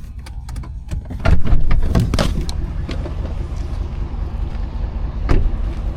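Off-road vehicle engine running in deep mud, with a series of sharp knocks and thumps; the loudest come about one and a half to two and a half seconds in, and there is a single sharp one near the end.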